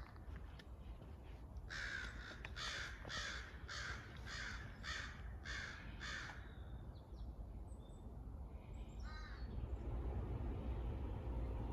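A crow cawing: a series of about eight caws, evenly spaced at roughly two a second. A few seconds later comes a brief, short call from a smaller bird.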